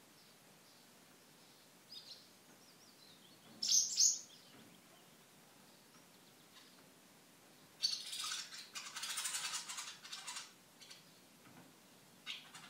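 Birds chirping: a few faint, short chirps, with a louder one about four seconds in. From about eight seconds in comes a couple of seconds of soft rustling and scratching as the saddle is handled.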